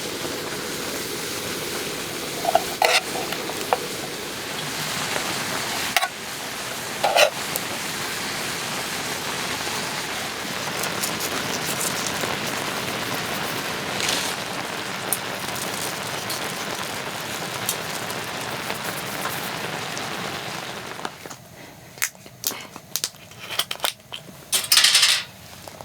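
Spicy webfoot octopus stir-frying in a pan: a steady sizzle with a few clinks of a utensil against the pan. About 21 s in, the sizzle drops away, leaving scattered clinks and taps.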